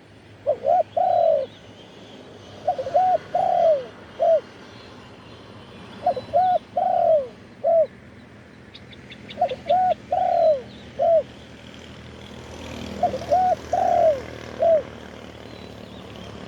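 Spotted dove cooing its repeated phrase of four or five notes, five times, about every three and a half seconds.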